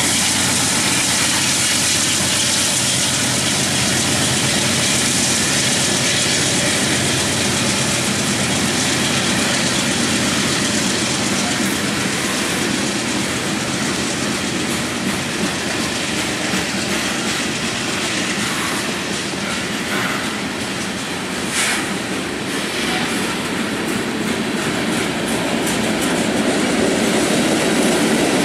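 Freight train cars rolling past: covered hoppers and open hoppers, their wheels running steadily over the rails. A short high screech comes about three-quarters of the way through.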